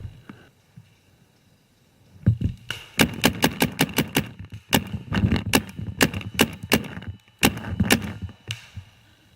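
Paintball markers firing rapid volleys of sharp pops, several shots a second, starting about two seconds in and running in bursts until shortly before the end.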